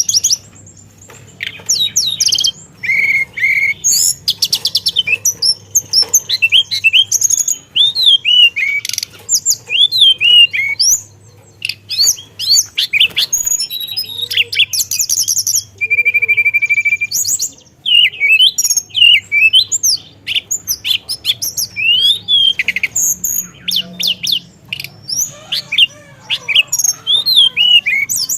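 A teledekan (blue flycatcher) singing hard: a fast, varied run of chirps, slurred whistles and trills, with short pauses between phrases and one long steady whistle a little past halfway.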